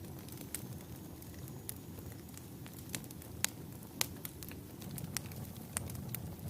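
Wood fire burning in a fireplace: a steady low rumble of flame with sharp crackles and pops scattered through it, the loudest pops about three and a half and four seconds in.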